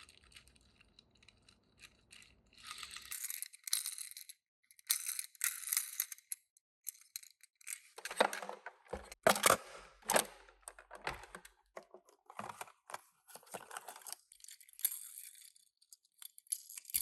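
Toy-car packaging being opened and handled: bursts of rustling and tearing, with a cluster of sharp clicks and knocks in the middle as small die-cast minicars and box parts are handled.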